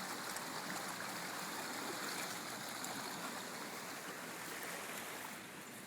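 Flood-swollen creek running high: a steady rush of water, a little softer near the end.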